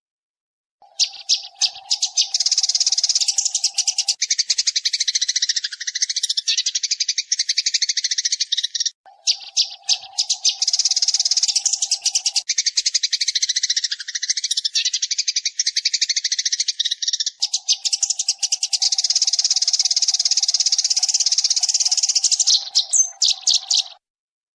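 Sparrow lure recording: a flock of sparrows chirping rapidly and densely, starting about a second in, pausing briefly about 9 s in and stopping just before the end. A steady lower drone sits under the chirping in three stretches.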